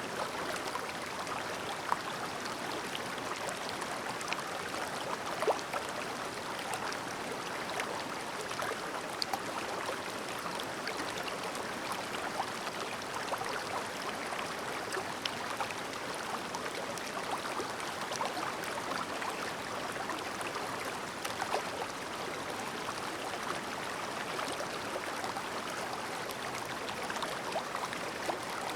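Shallow, clear river babbling steadily over its bed, with small splashes and trickles standing out now and then.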